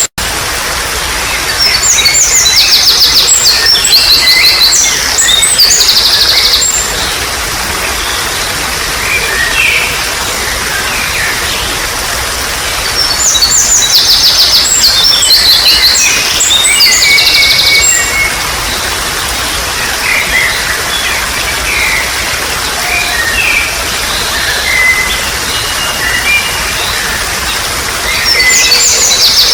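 Songbird singing rapid, high trilled phrases over a steady trickle of running water. There are two long bursts of song, one a couple of seconds in and one about halfway through, with softer chirps between them and a short burst at the end.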